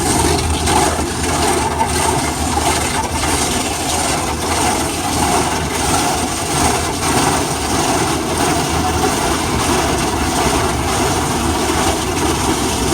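Automatic car wash sprayers spraying water and foam onto the car, heard from inside the cabin as a loud, steady rushing hiss.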